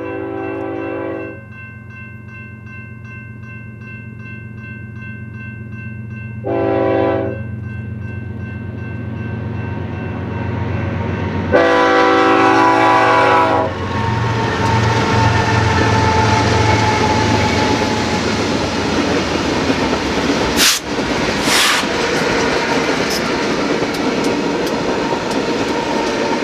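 A BNSF diesel freight train's multi-chime air horn sounds three blasts, two short and then a longer one, over a growing diesel engine rumble. The locomotives then pass, followed by the steady rushing and rolling of the freight cars on the rails, with two sharp knocks about two-thirds of the way through.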